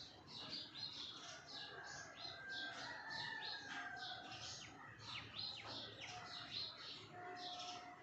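Small birds chirping: a dense run of short, high-pitched chirps several times a second, with a few longer, steadier whistled notes.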